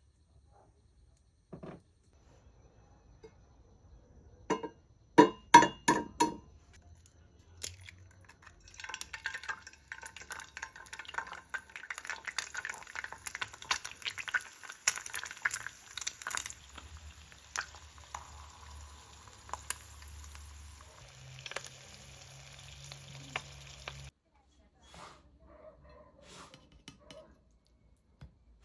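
Kitchen sounds: a handful of sharp knocks of utensils or cookware, then a long crackling sizzle with scattered clatter, like food frying in a pan as it is stirred, which cuts off suddenly near the end.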